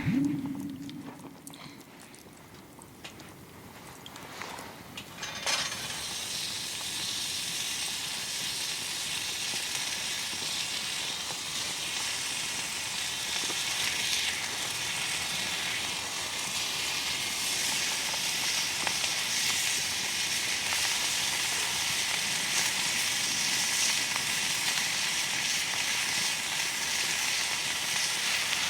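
Food frying in a hot pan. The sizzle starts suddenly about five seconds in and then hisses and crackles steadily. Before it there are a low thump and a few faint knocks.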